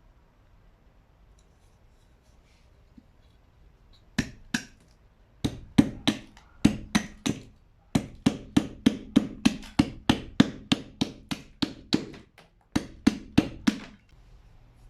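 A series of sharp knocks, about three a second, starting about four seconds in and running in short bursts with brief pauses, each with a low ring under it.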